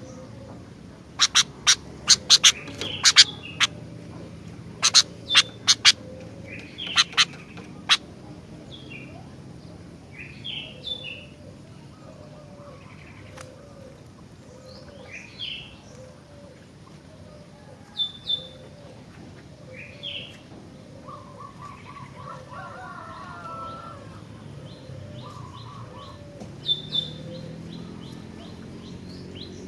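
Sooty-headed bulbul calling: a run of loud, sharp notes in the first eight seconds, then scattered chirps, a short rapid trill past the middle and quick high notes near the end. A softer low call repeats about once a second underneath.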